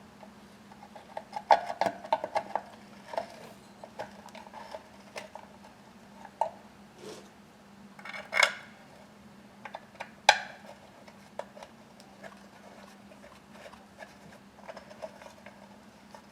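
Small metal parts and hand tools clinking and tapping in short, scattered knocks as the muffler's bolts are fitted to a chainsaw, with two louder clanks about eight and ten seconds in.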